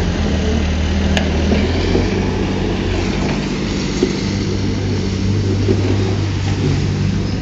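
Heavy earthmoving machine's diesel engine running steadily under load, with a couple of brief metallic clicks.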